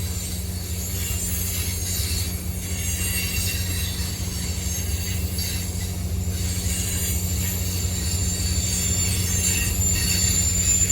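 Train rolling past with a steady low rumble and high, thin wheel squeal that wavers.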